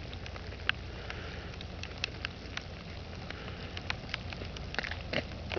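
Ice-laden tree branches cracking: many sharp, irregular cracks and ticks scattered through, over a low steady background.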